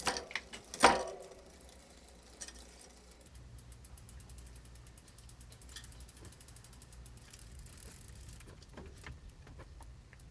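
GT Avalanche mountain bike drivetrain being turned over by hand: a sharp click about a second in, then the chain running with the rear freewheel ticking rapidly and steadily.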